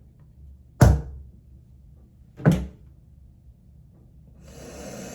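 Two sharp thuds about a second and a half apart, then a soft rustling hiss near the end.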